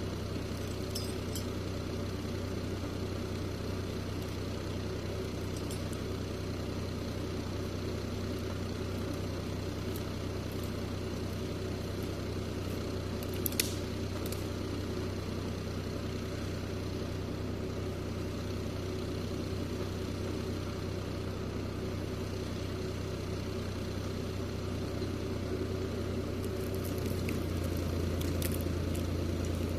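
Steyr 540 tractor engine running steadily at low, even revs, getting slightly louder near the end, with one brief sharp click about halfway.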